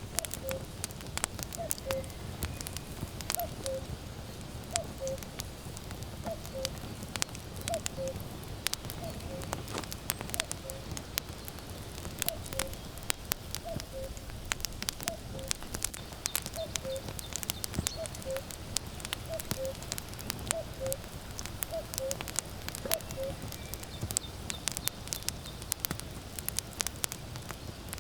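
Firewood crackling and popping in a steady fire, while a common cuckoo calls its falling two-note "cuck-oo" over and over, about every second and a half, falling silent near the end.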